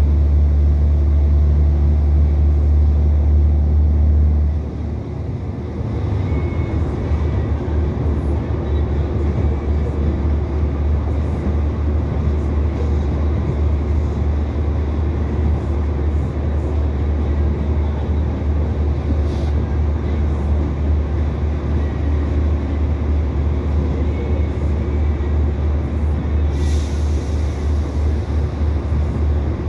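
Interior of an Irish Rail 2800 Class diesel railcar on the move. A steady low engine drone cuts back about four and a half seconds in, leaving the rumble and rattle of wheels on the track as the train coasts on its final approach. A short hiss comes near the end.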